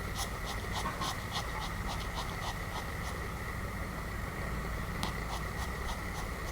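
Pomeranian snoring: a run of short, quick clicking snorts, about three or four a second, that pauses midway and comes back near the end, over a steady hum.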